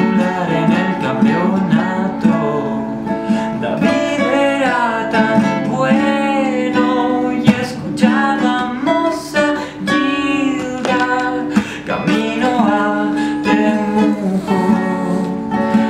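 Live song between verses: acoustic guitar strummed in steady chords, with a gliding melodic line over it that sounds like wordless singing.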